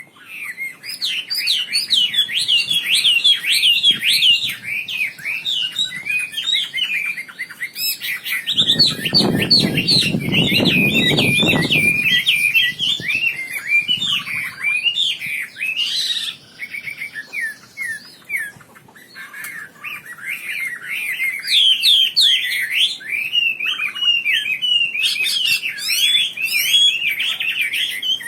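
Wambi songbird singing vigorously and without let-up, a fast stream of high chirping notes. A low rustling noise comes in under the song for a few seconds about nine seconds in, and the song slackens briefly near eighteen seconds.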